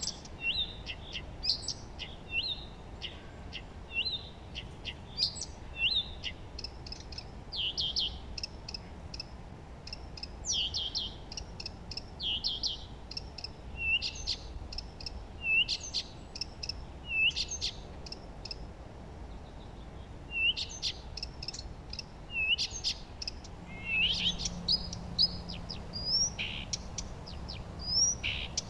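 Songbirds chirping and singing in a steady series of short, high notes and quick trills, several calls a second at times, over a soft background hiss.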